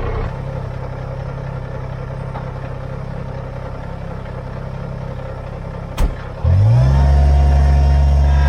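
Kubota BX23S compact tractor's three-cylinder diesel engine running steadily at a low idle. About six seconds in there is a sharp click, and then the engine comes up to a louder, higher, steady speed, ready for work.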